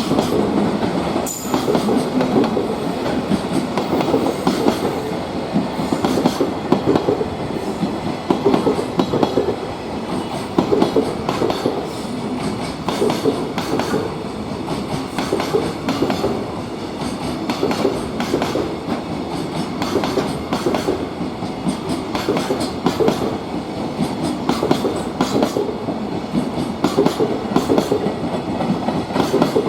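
Freight train wagons rolling past at speed, wheels clattering over the rail joints in a steady, repeating rhythm.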